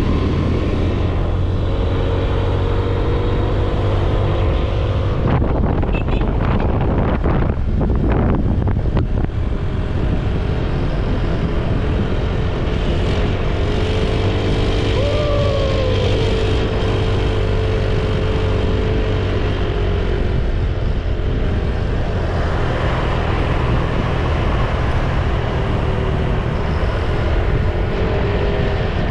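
Motor scooter's small engine running while riding, with wind noise over the microphone throughout. The engine's pitch shifts briefly about halfway through.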